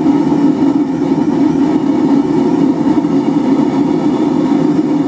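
Steady, even roar of a running forge, with no hammer blows.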